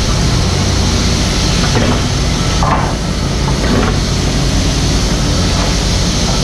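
Mini excavator's diesel engine running steadily under work, with three brief knocks about two, three and four seconds in.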